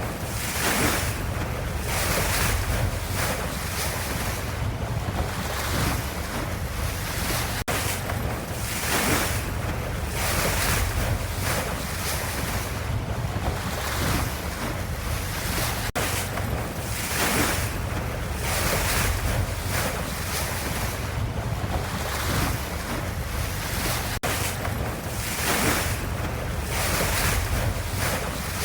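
Ocean waves washing: a steady rushing noise that swells and ebbs every couple of seconds. There is a very brief dropout about every eight seconds.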